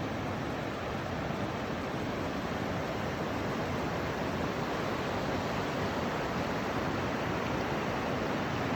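Steady rushing water, an even noise with no breaks or changes.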